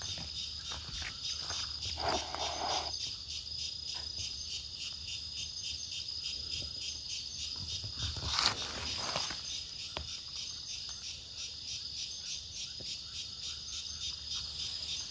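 Insects, likely crickets, chirping steadily in a fast, even pulse, with a few brief rustles and knocks about two seconds in and again past the middle.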